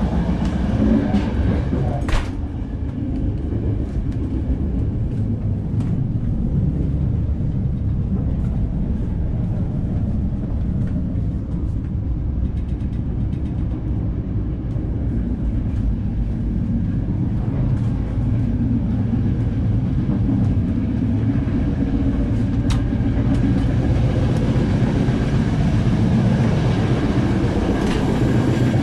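Rumble and rattle of a moving Intercity Notte passenger coach heard from inside while the train runs at speed. There is a sharp click about two seconds in, as a connecting door is worked, and a lighter click later on.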